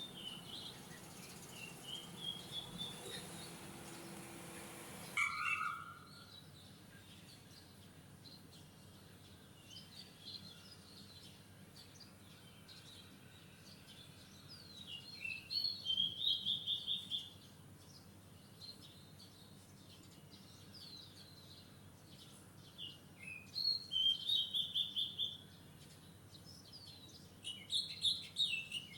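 Wild songbirds singing. In the first five seconds a series of notes climbs steadily in pitch over a hiss; then the recording changes abruptly, and a bird sings bursts of rapid, quickly repeated high notes, roughly every eight seconds.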